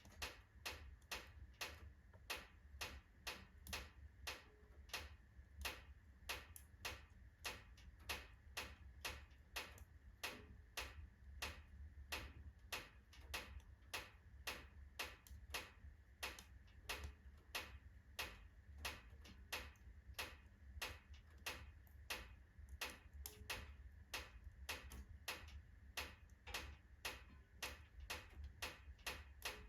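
Oak logs burning in a fireplace: a quiet, fast run of small sharp crackles and pops, about three a second and uneven in strength, over a low steady rumble.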